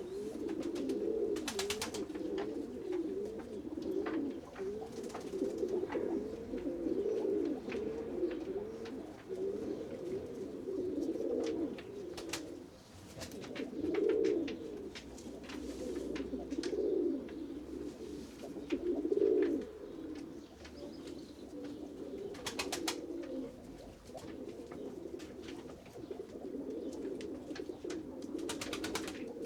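Several pigeons cooing continuously, many overlapping low calls, with scattered sharp clicks and taps throughout.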